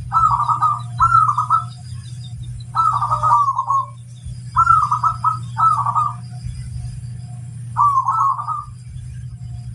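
Zebra dove (perkutut) cooing: six short, rolling coo phrases spaced irregularly, with a steady low hum underneath.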